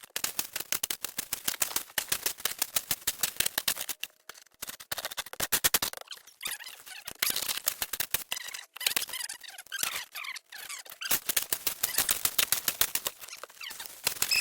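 Shovels digging and scraping in snow: a fast, dense run of crunches and scrapes in stretches broken by short pauses.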